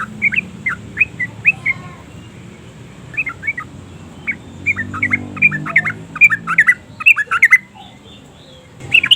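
Yellow-vented bulbul calling: rapid runs of short, quick chattering notes, with a pause of about a second near the end before the calling starts again.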